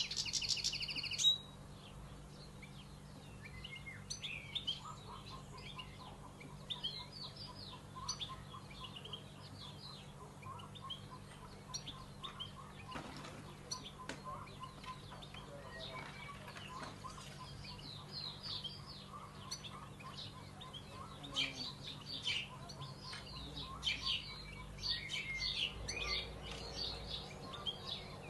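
Small birds chirping and twittering, loud and dense for the first second or so, then scattered short chirps throughout, over a faint steady low hum.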